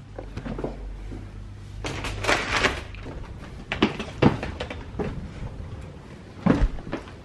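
Knocks and clatter of things being handled, like cupboards or a door: a rustling clatter about two seconds in, then several separate sharp knocks.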